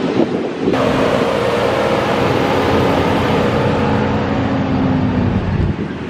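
A truck engine running at a steady speed, with wind on the microphone. It starts about a second in and cuts off suddenly near the end.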